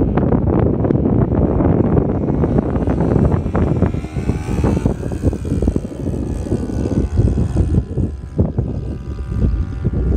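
Cessna 182's piston engine and propeller running steadily, a loud, heavy drone.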